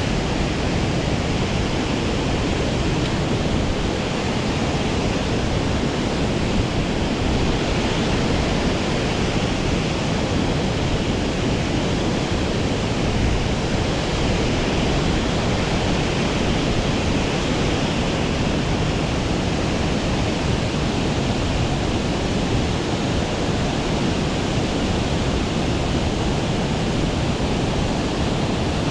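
Water pouring over a large weir on a mountain trout stream, running high after a typhoon: a loud, steady rush that never lets up.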